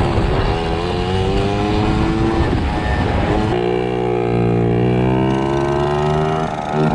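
Small motorbike engine running under way, its pitch climbing steadily as it speeds up; about three and a half seconds in the note changes to a new steady pitch and climbs slowly again.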